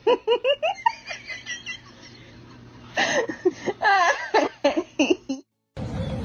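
A person laughing hard in two bouts of quick, high-pitched breathy pulses. Near the end it cuts off, and steady background noise with a few clicks takes over.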